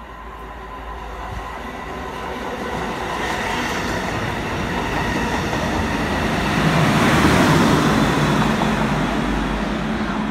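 Network Rail Robel Mobile Maintenance Train passing through a station, its engine and wheels on the rails growing louder as it approaches, loudest about seven seconds in as it goes close by, then easing off. Its engine gives a steady drone that sounds kind of funny.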